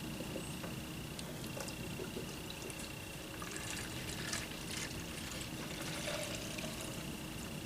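Diesel fuel being poured into a glass jar, trickling and splashing with small irregular clicks, under a faint steady high whine.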